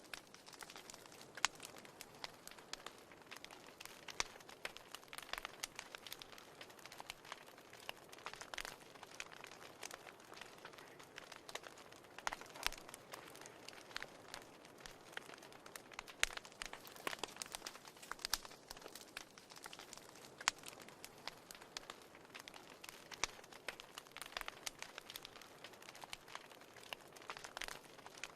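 Wood fire crackling in a fireplace: irregular sharp pops and snaps, a few louder than the rest, over a soft steady hiss.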